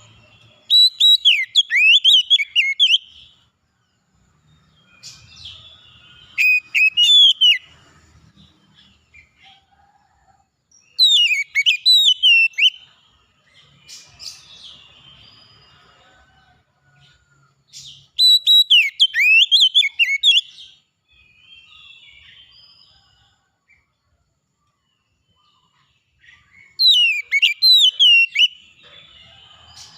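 Songbird singing in five bursts of rapid, warbling whistled notes, each burst about two to three seconds long, with quiet pauses between them.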